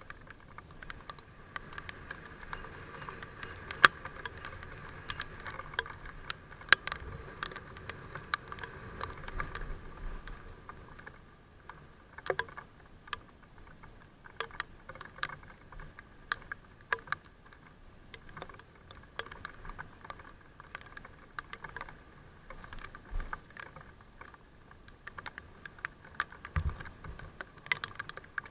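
Raindrops ticking irregularly on the camera or helmet, many sharp taps at uneven spacing over a faint steady hum.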